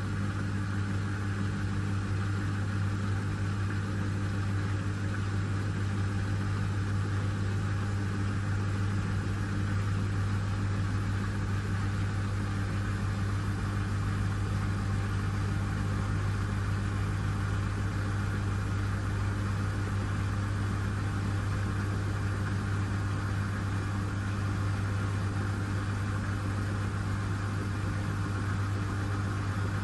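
Miele W1 washing machine running with a steady, even hum.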